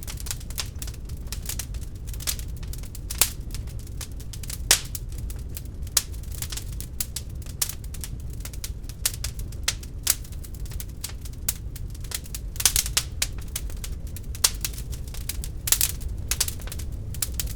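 Wood fire crackling in a fireplace: irregular sharp pops and snaps over a steady low rumble, with a handful of louder pops standing out.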